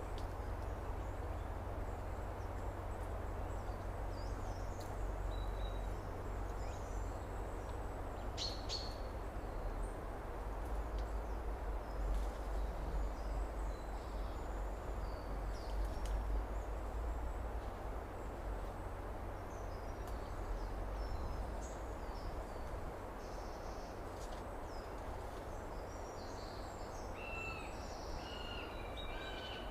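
Summer outdoor ambience: a steady rushing background noise with a low rumble, and scattered faint bird chirps over it. A few birds chirp more clearly near the end.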